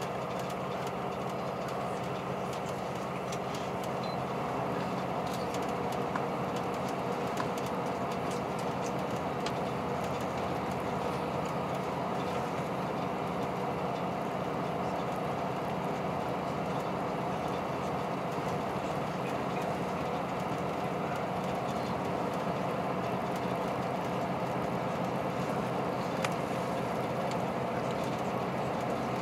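Cabin of a KiHa 183 series diesel express train running at speed: a steady diesel engine drone over wheel-on-rail rumble, with a few faint clicks.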